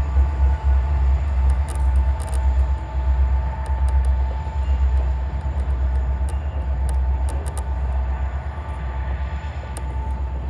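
Union Pacific freight train rolling along yard track: a heavy low rumble with a steady thin tone over it and scattered sharp metallic clicks, easing off slightly near the end.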